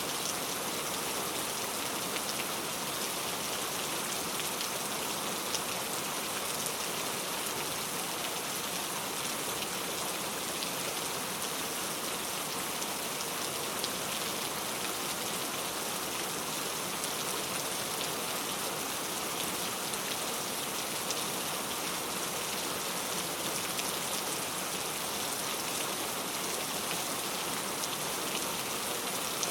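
Steady rain falling: an even hiss with many small drop ticks through it.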